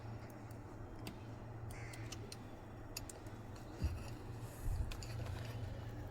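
Scattered light clicks and taps of small tools or a component being handled on an electronics repair bench, over a steady low hum, with a couple of soft thuds about two-thirds of the way through.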